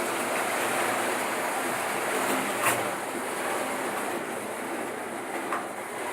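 Märklin model train running on its track, a steady rushing rattle of wheels on rails, with a sharp click about two and a half seconds in and a lighter one near the end.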